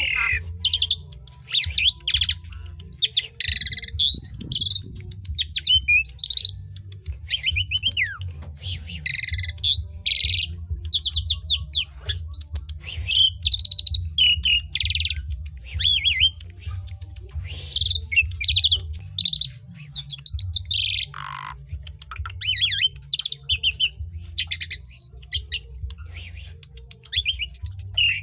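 Asian pied starling (jalak suren) singing without pause: fast, varied phrases of rapidly repeated notes and pitch glides, broken by short gaps, over a steady low hum.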